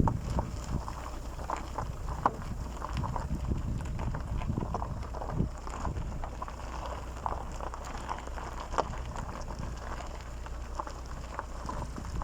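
Wind buffeting the microphone: a steady low rumble with scattered, irregular light knocks.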